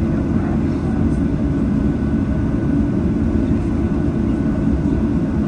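Boeing 737-800 cabin noise while taxiing to the gate: a steady low rumble from the CFM56-7B engines at taxi idle and the airframe rolling on the taxiway.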